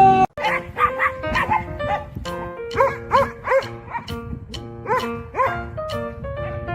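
A dog barking repeatedly in short quick barks, often in pairs, over background music.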